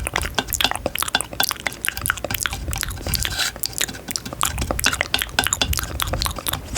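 Close-miked ASMR trigger sounds: a dense, irregular run of small wet clicks and crackles.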